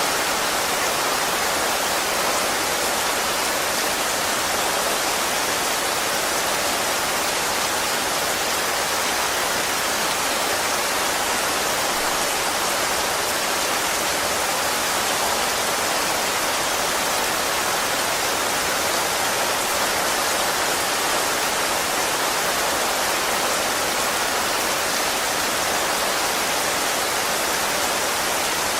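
Steady, even rain falling, with no distinct drops standing out.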